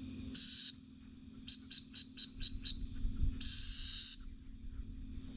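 Dog-training whistle blown to direct a retriever: a short blast, a quick run of six toots, then a longer blast, all on one high, steady pitch.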